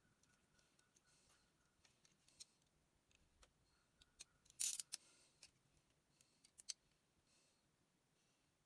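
Faint, scattered sharp clicks and light scraping of hand work with small metal parts or tools, with a short, louder cluster of clicks and scraping about four and a half seconds in.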